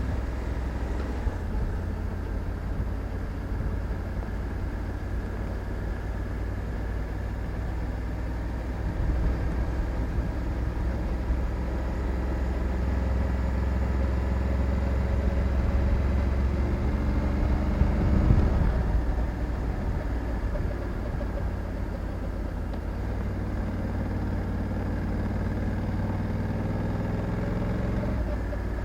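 Honda Africa Twin 1100 DCT motorcycle's parallel-twin engine running under way, a steady low engine note. About two-thirds of the way through there is a brief louder moment, and soon after the engine note shifts to a new pitch.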